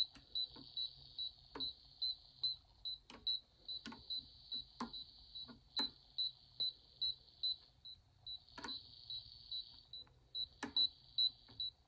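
Circuit breaker finder's handheld receiver beeping: a rapid, high-pitched beep about five times a second over a hiss, as it is passed along the breakers to find the one feeding the outlet with the transmitter plugged in. The beeping drops out briefly twice, and scattered sharp clicks sound throughout.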